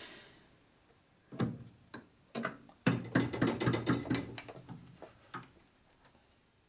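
Metal clinks and knocks of a workpiece being set into a metal lathe and clamped: a few separate knocks, then a busier clatter in the middle, then one more knock near the end.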